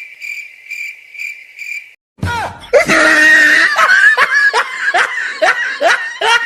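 A high pulsing chirp, about four pulses a second, for roughly two seconds. Then loud, rhythmic laughter with repeated falling cries about two a second.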